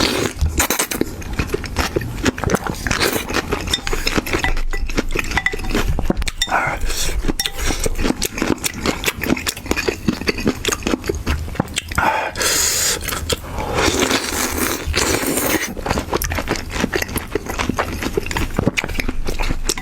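Close-miked eating of braised chicken feet: steady wet chewing and biting, with quick smacking clicks, and two longer hissy slurps a little past the middle.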